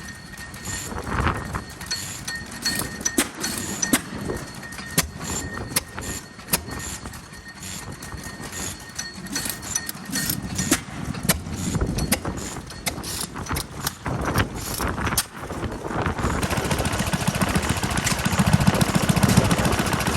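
Vintage single-cylinder stationary engines running, with scattered sharp knocks and pops. About sixteen seconds in, a louder, steady rapid chugging takes over.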